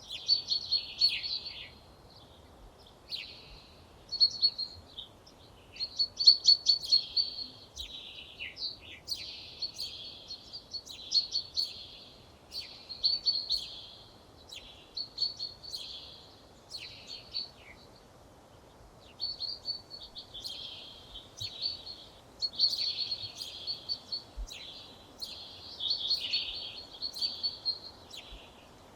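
A songbird singing short, rapid phrases of notes, each a second or two long, with brief pauses between them, over a faint steady background hiss.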